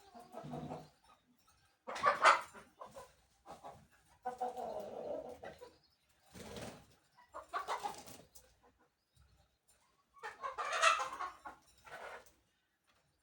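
Birds calling in about six separate, scratchy bursts with short pauses between them, the loudest about two seconds in and another near the end.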